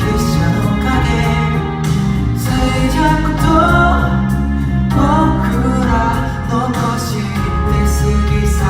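A song: a voice sings a melody over held bass notes, with a drum hit now and then.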